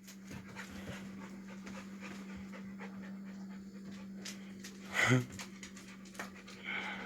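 A puppy panting, with one brief louder sound about five seconds in, over a steady low hum.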